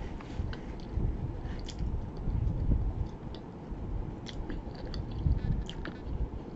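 A person chewing a mouthful of pizza: uneven soft thumps of the jaw with small wet mouth clicks, close to the microphone.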